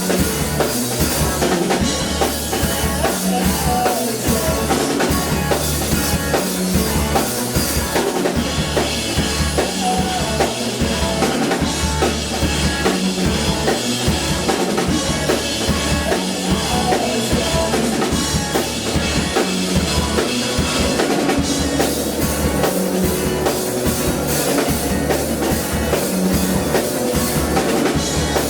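Live band playing a song with a full drum kit: a steady kick drum beat under cymbals and instruments, the cymbals easing off for a stretch in the middle.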